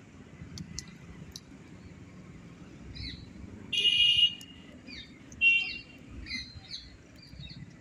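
Birds chirping and calling, with a loud call held for about half a second about four seconds in, and a quick trill about a second and a half after it.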